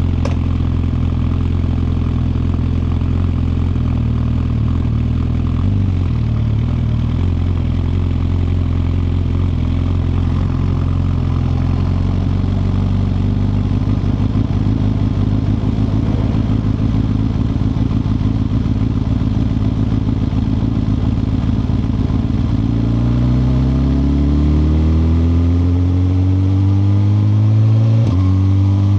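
Suzuki GSX-R1000R's 999 cc inline-four running at a steady low pitch while riding. Over the last several seconds the engine note climbs as the bike accelerates, drops sharply on a quick upshift and climbs again.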